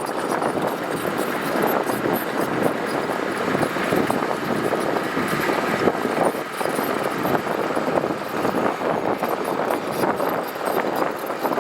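Heavy diesel earthmoving machinery running steadily under load on gravel.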